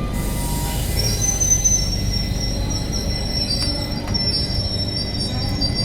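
Passenger train's wheels and brakes squealing in several high, wavering tones over a low rolling rumble as it slows to arrive at the station. A short hiss opens the sound.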